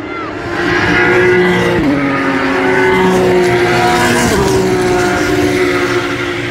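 Porsche race car engine running hard and loud, its pitch dropping sharply twice, about two and four and a half seconds in, as it changes gear.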